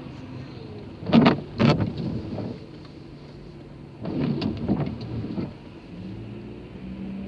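Car cabin noise in slow traffic, with a few short, louder sounds about a second in and again around the middle.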